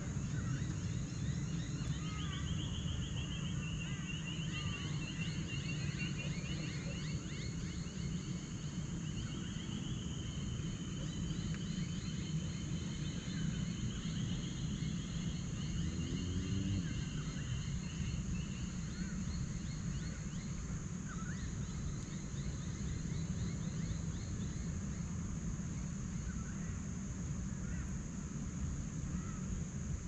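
Forest birds singing: a fast trill repeats through the first half or so, with scattered short chirps throughout. Under the birds runs a steady high-pitched hiss and a low rumble.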